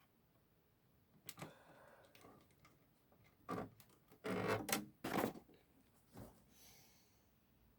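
Handling noise from reassembling an original Xbox: a series of short clatters and knocks of parts and screws being picked up and set down, about five in all, the busiest stretch a little past halfway.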